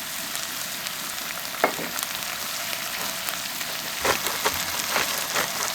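Food sizzling steadily in a hot frying pan, with a few sharp clicks and taps, one about a second and a half in and several near the end.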